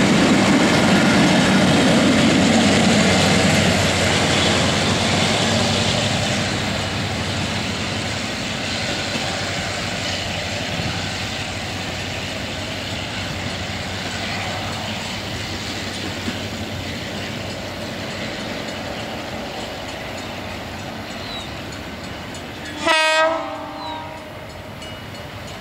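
Passenger coaches rolling past on the rails, their rumble fading steadily as the train moves away. About 23 seconds in comes one short, loud diesel locomotive horn blast, followed a second later by a faint short toot.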